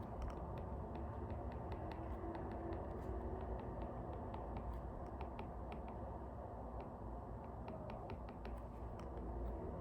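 Typing on a computer keyboard: light, irregular key clicks, several a second, over a steady low background hum.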